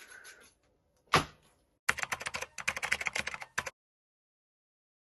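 One sharp click about a second in, then a quick run of clicks and taps for nearly two seconds that stops abruptly, like objects or packaging being handled.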